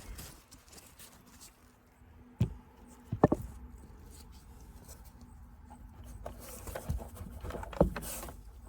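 Plastic interior trim panel being handled and pressed into place: a few sharp clicks and knocks, with light rubbing between them.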